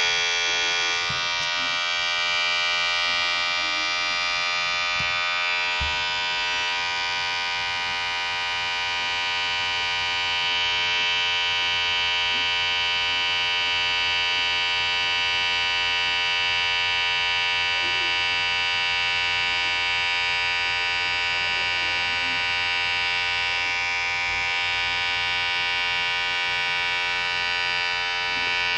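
Electric hair clipper running, a steady even buzz with no change in pitch.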